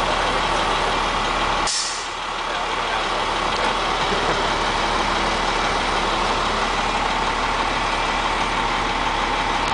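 Heavy truck engine running steadily under load, with a short sharp hiss of air about two seconds in.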